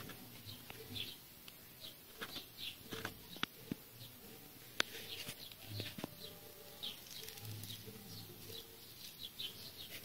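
Birds chirping repeatedly, faint and in short calls, with scattered light clicks and knocks.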